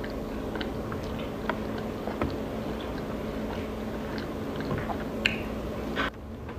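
Chewing and wet mouth clicks of someone eating chicken wings close to the microphone, over a steady low hum; the sound cuts off abruptly near the end.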